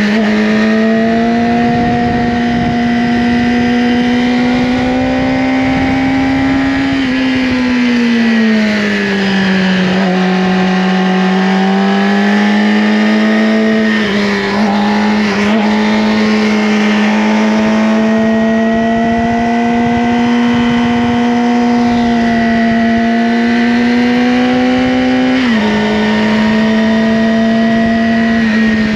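Yamaha R6 inline-four engine through an Akrapovic slip-on exhaust, running at steady revs under way. Its pitch eases down and back up about a third of the way in, and drops suddenly near the end.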